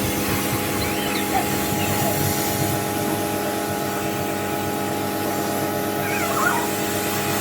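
Pressure washer running with a steady motor hum while the car is washed.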